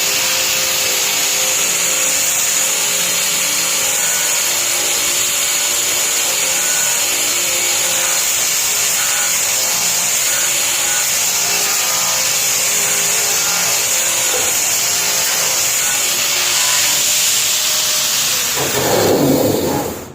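Power sander running at full speed, grinding paint and rust off the steel underside of a car hood. It holds a steady whine throughout, and the grinding grows louder and lower near the end.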